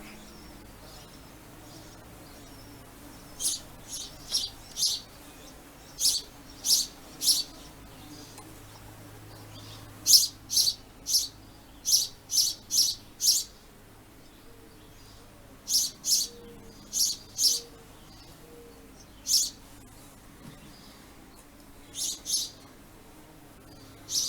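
House sparrows chirping: short, high cheeps in runs of two to four, repeated every few seconds.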